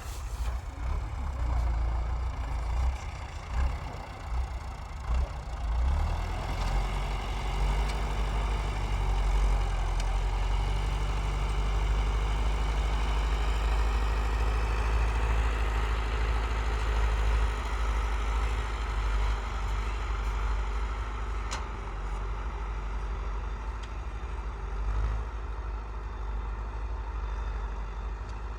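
Tractor engine running with a steady low drone, uneven for the first few seconds and then settling.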